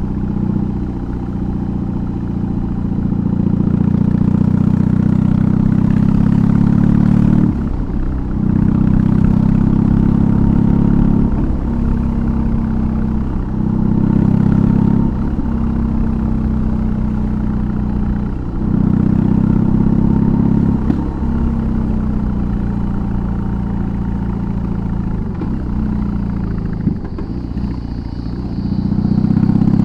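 BMW R18's 1802 cc boxer twin and exhaust running under way, with the engine note dropping briefly several times as the throttle comes off and picking back up. It runs louder again near the end.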